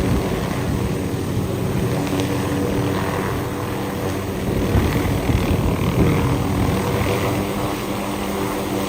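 Helicopter running, a steady engine and rotor sound.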